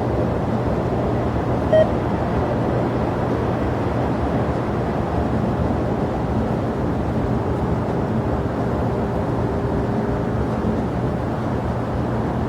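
Steady jet aircraft engine noise at an airport, an even rumble with no rise or fall. A short beep sounds about two seconds in.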